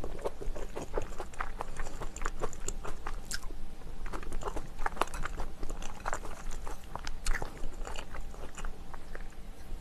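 Close-miked chewing of spicy chicken, with many small irregular crunches and wet mouth clicks.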